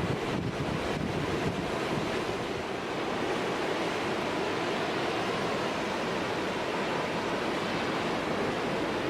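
Heavy storm surf breaking and washing against a jetty, a steady roar of water with strong wind buffeting the microphone, gustiest in the first couple of seconds.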